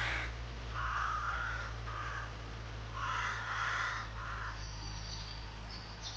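A crow cawing about four times over the first four seconds or so, followed by a small bird's brief high chirps, over a steady low hum.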